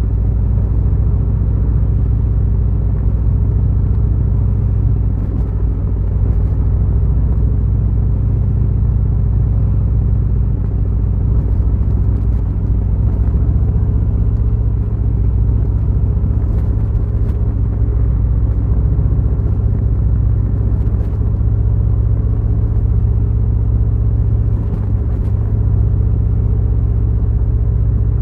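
Harley-Davidson Fat Boy's V-twin engine running steadily while riding, a low, even engine note that barely changes in pitch or loudness.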